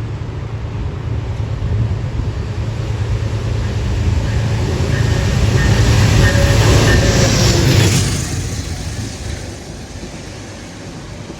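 A locomotive-hauled commuter train passing: a low locomotive drone and rolling rail noise build to their loudest about six to eight seconds in, then ease off as the coaches follow.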